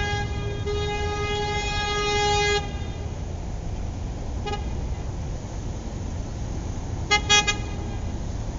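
City street traffic with a car horn: one long honk of about two and a half seconds, a short toot a couple of seconds later, and three quick toots near the end, over a steady low rumble of traffic.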